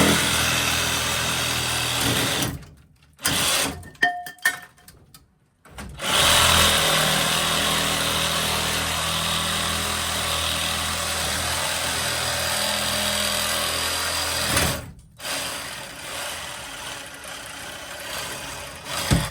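Handheld power cutting tool running in spurts: a run of about two and a half seconds, a few short bursts, then a long steady run of about nine seconds before it drops to a quieter level near the end.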